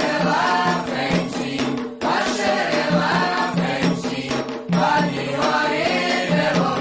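Afro-Brazilian religious chant for the orixá Xangô: voices singing a melodic line over a steady hand-drum rhythm.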